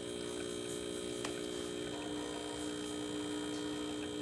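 Pasquini espresso machine's pump running steadily during a test shot extraction, a steady hum whose tone shifts about halfway through, with a faint click about a second in.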